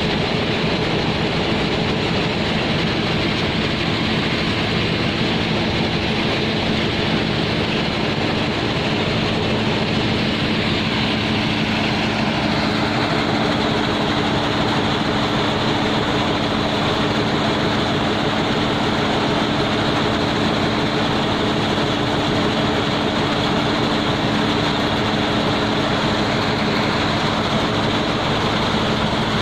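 Heavy diesel machinery running steadily while coal is unloaded from a ship into a barge: a constant drone of several steady tones over a rushing noise, with a higher hiss joining about halfway through.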